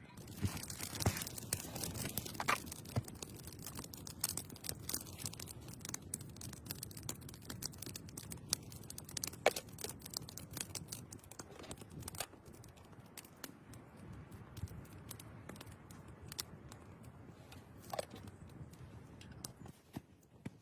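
Irregular rustling and scraping from handling gear or material, broken by scattered small clicks and snaps, a few of them sharper about halfway through and near the end.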